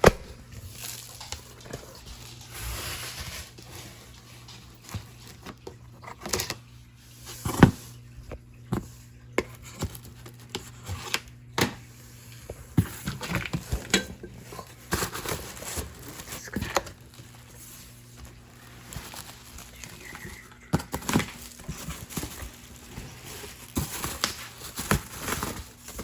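Cardboard gift packaging being handled and opened: irregular knocks, taps and crinkling rustles, with one sharper knock about seven or eight seconds in.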